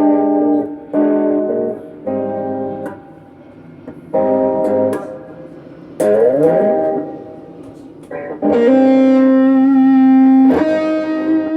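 Electric guitar played through a Peavey Backstage Plus practice amp via a Boss ME-25 multi-effects unit: short strummed chords with gaps between them, a slide in pitch about six seconds in, then a chord held for about two seconds before another chord near the end.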